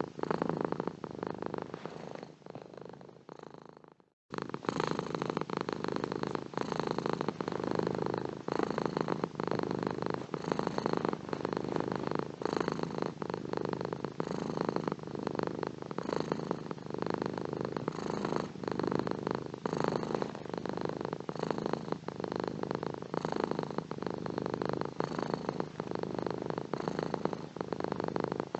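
Domestic cat purring steadily and close up. About two seconds in the purr fades away to a moment of silence, then starts again abruptly and carries on.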